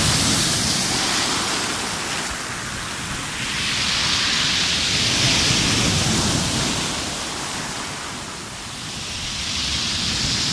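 Rough sea surf: waves breaking and rushing in, swelling and falling away about every five to six seconds.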